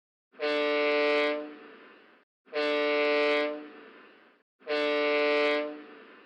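Ship's horn sounding three short blasts of about a second each, evenly spaced, each with an echoing tail. Under the collision regulations, three short blasts signal "I am operating astern propulsion."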